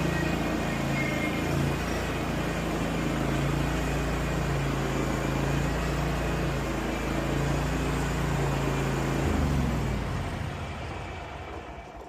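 Riding zero-turn mower's engine running steadily, dying away over the last two seconds.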